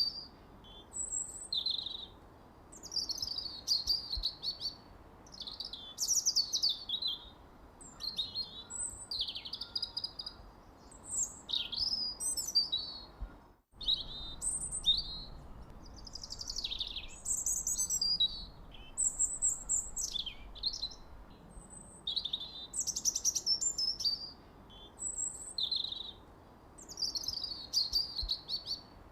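Songbirds chirping and singing in quick, varied high phrases, one after another with short pauses between, over a faint steady hiss. The audio drops out for an instant about halfway through.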